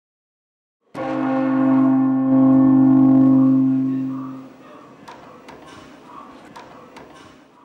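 A deep, bell-like ringing tone starts suddenly about a second in, swells, then fades away over about three seconds. Faint rustling with scattered sharp clicks follows.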